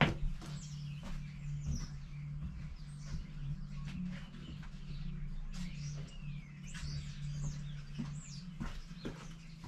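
Small birds chirping in the background with short, scattered gliding calls, over a steady low hum and a few light knocks.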